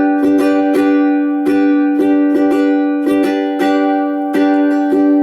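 Ukulele strummed on a single G major chord in a skipping down, up, down, down, down, up pattern at full playing speed, several strums a second.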